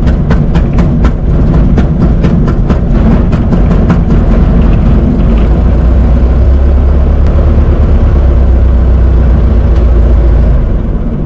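1926 Ford Model T's four-cylinder engine running as the car drives, heard from inside the cab, with a run of regular sharp clicks over the first few seconds. The sound drops away near the end.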